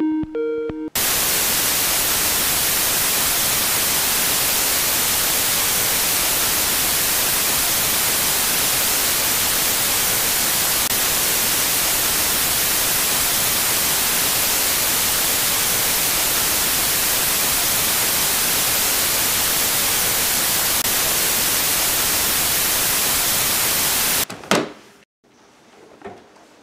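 Loud, steady white-noise static hiss that cuts in abruptly about a second in and cuts off just as suddenly near the end, followed by a single sharp click.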